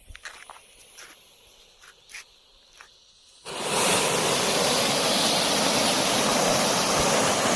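A homemade titanium firework fountain bursts into a loud, steady hiss about three and a half seconds in, after a few faint ticks.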